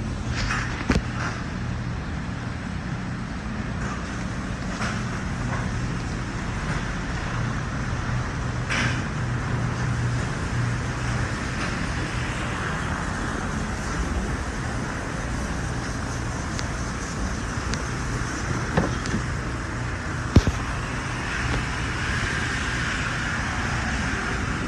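2009 Dodge Ram 1500's 5.7-litre Hemi V8 idling steadily, with a few short sharp clicks or knocks over it.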